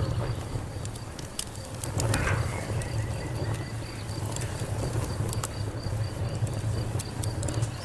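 Wood fire crackling, with many sharp pops over a steady low rumble of flames. An insect chirps throughout in an even high pulse, about four chirps a second.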